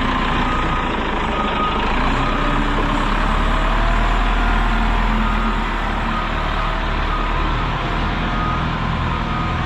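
Heavy equipment loader running, with its backup alarm giving repeated beeps as it reverses.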